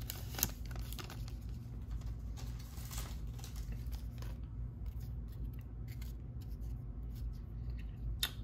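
Quiet handling of baseball trading cards: a few faint, light scrapes and rustles as the cards are slid and sorted, over a steady low hum.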